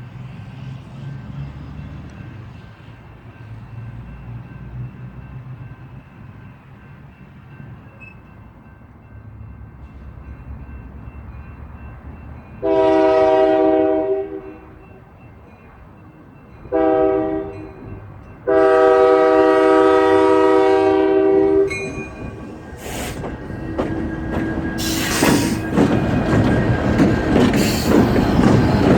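Diesel locomotive air horn sounding three blasts, long, short, then a longer one, over a low engine rumble. After the horn the train comes closer, its rumble and wheel clatter growing steadily louder.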